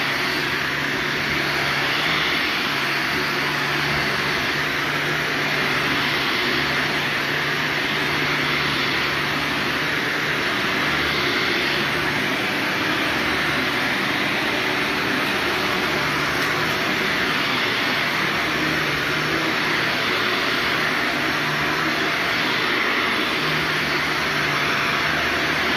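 Vacuum cleaner running steadily as carpet is vacuumed, a continuous rushing roar with a low hum that fades in and out.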